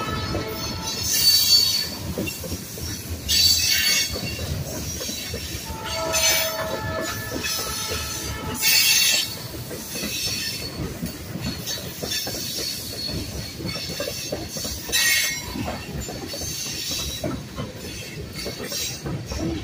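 Freight train of tank cars rolling past at close range: a steady rumble and clatter of steel wheels on rail, with high-pitched wheel squeal rising in short bursts several times.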